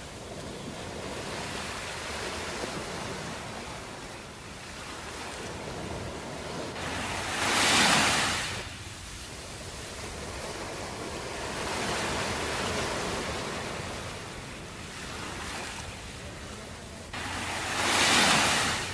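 Ocean surf: a continuous wash of waves, with two bigger waves breaking loudly about ten seconds apart, each swelling up and then falling away.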